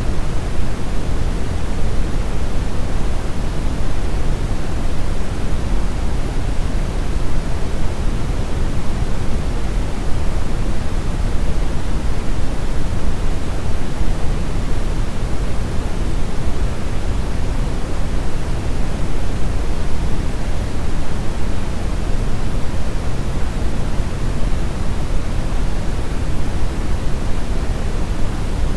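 Brown noise: a steady, even rushing hiss, strongest in the low end and darker toward the top, with no changes.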